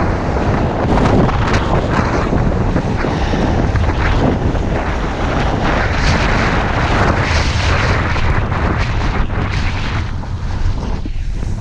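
Wind buffeting the microphone of a camera carried down a ski run: a loud, steady rumble with hissing gusts over it.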